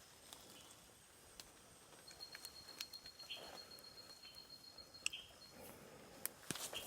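A faint night chorus of insects and frogs. A thin, steady, high insect trill runs for about three seconds in the middle, short high chirps come every second or so, and there are a few light clicks.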